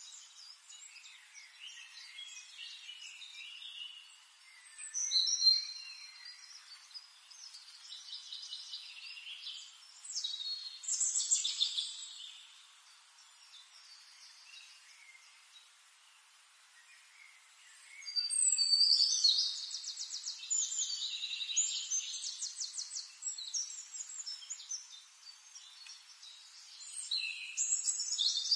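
Songbirds chirping and trilling in bursts, with quieter gaps between. The loudest stretches come about five seconds in and from about eighteen seconds on, where one bird gives fast repeated notes.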